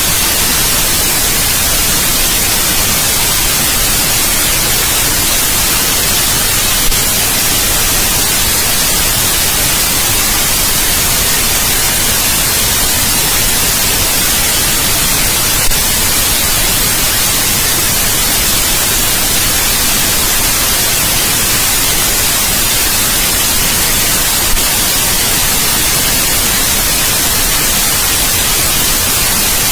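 Steady white noise: an even, unchanging hiss, brightest in the high end, with a faint tick about every nine seconds.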